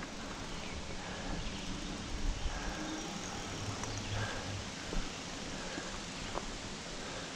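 Steady rolling noise of a bicycle ridden along a park path, with a few faint clicks.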